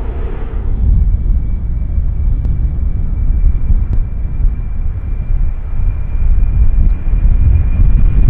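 Jet airliner engines rumbling low and loud, with a thin, steady high whine coming in about a second in.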